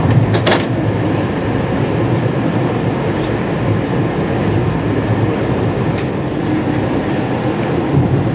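Amtrak Piedmont passenger train running along the track: a steady low rumble of wheels on rail, with a few sharp clicks, a pair near the start and single ones about six and seven and a half seconds in.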